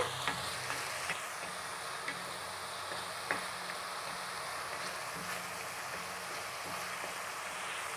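Onion paste and dried red chillies sizzling steadily in hot oil in a kadai while being sautéed, with a few faint scrapes and taps of a wooden spatula as it is stirred.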